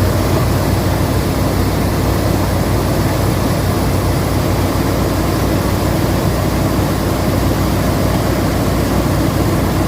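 Old square-body Suburban's engine idling steadily with a low hum, just started after sitting for a few years. It runs a little rough, which the owner takes for a miss on one side, though he could be mistaken.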